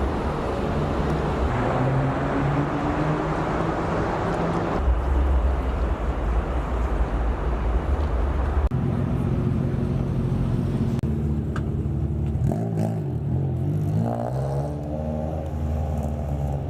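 Car engines running, the sound changing abruptly twice. Near the end an engine note rises and falls.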